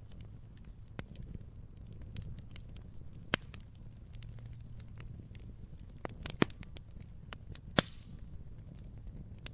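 Fire crackling: scattered sharp pops over a low steady rumble, with three louder pops, one about a third of the way in and two in the second half.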